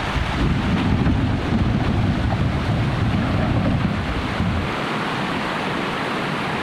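River water rushing, with wind buffeting the microphone. The low wind rumble drops away about two-thirds of the way through, leaving a steady rush of water.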